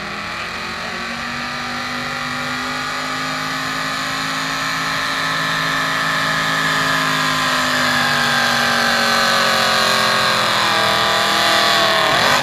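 Modified gasoline pickup truck engine at wide-open throttle, pulling a weight-transfer sled down the track. The engine note sags steadily in pitch as the sled loads it down, dropping further near the end, and grows louder as the truck comes closer.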